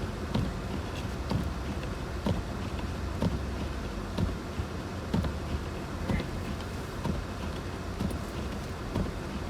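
A vehicle driving, heard as a steady low road and engine rumble, with a short thump repeating evenly about once a second.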